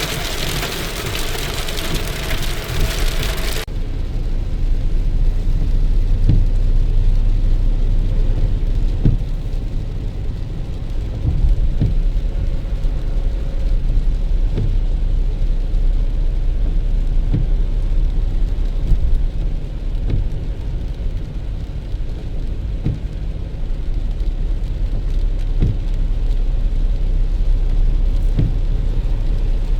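Rain hissing for the first few seconds. Then the sound turns suddenly muffled: a steady low rumble with soft knocks every second or two.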